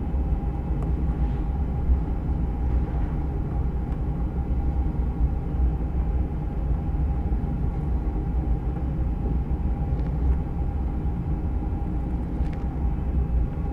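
Steady low mechanical hum and rumble with a faint held tone, like a machine running continuously, with a few faint light ticks about ten and twelve seconds in.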